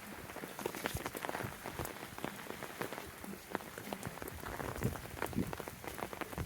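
Rain falling, with many irregular close-by taps of drops over a steady hiss.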